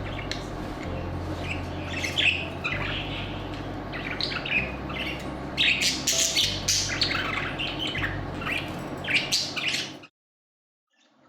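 Budgies chirping and squawking in quick, busy chatter, which cuts off about a second before the end.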